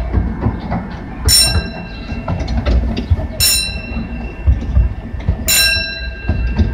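Open-air park ride train rolling along with a steady low rumble, while a bell rings three times, one strike about every two seconds.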